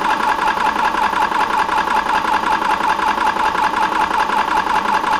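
Benjamin Traveler portable high-pressure air compressor running steadily with a fast, even pumping chatter, at the very end of a fill to about 3,000 psi.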